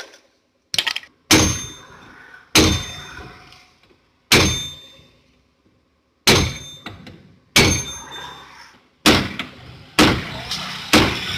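Hammer striking metal about eight times, irregularly a second or two apart, each blow a loud clang that rings out briefly.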